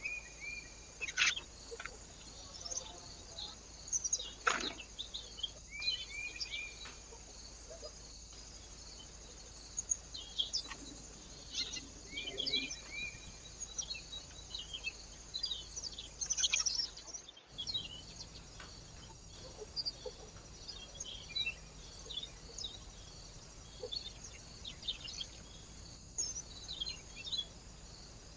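Small birds chirping and calling at a bird feeder: many short, scattered chirps and a few brief falling notes over a steady faint background hiss.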